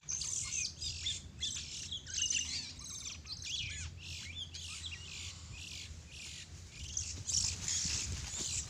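Many small birds chirping and chattering at once in a dense, overlapping stream of short high calls and trills, over a low steady rumble.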